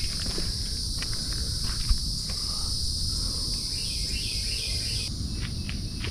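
Insects trilling steadily at a high pitch, part of the trill dropping out about five seconds in. A bird sings a short chirping phrase about four seconds in, over a low rumble of wind on the microphone.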